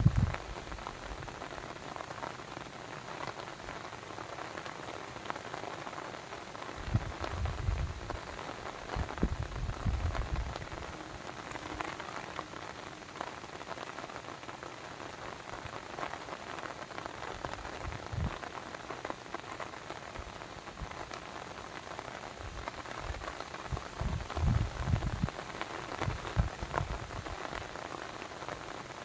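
Steady patter of rain falling on surfaces. Short low rumbles break in several times, about a third of the way in, around the middle and near the end.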